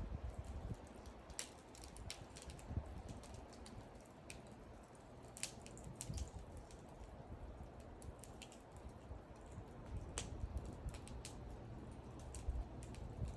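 Wood fire burning, crackling with about a dozen irregular sharp pops over a low steady rumble.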